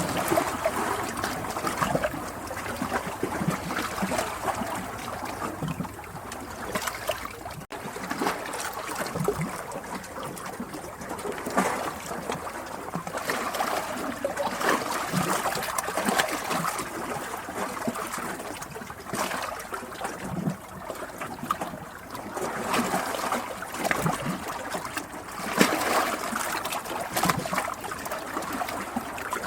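Running water trickling and splashing continuously, like a small stream, with many small splashes in an uneven wash. The sound breaks off for an instant about eight seconds in.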